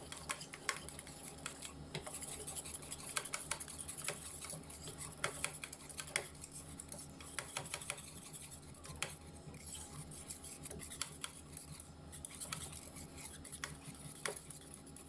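A utensil stirring a milk and cream mixture in a pan, with irregular light clicks and scrapes against the pan's sides and bottom.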